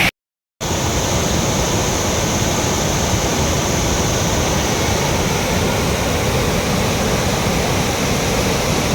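Jamzir waterfall on the Shingoda river in spate: a steady, loud roar of falling water. Just after the start the sound drops out completely for about half a second.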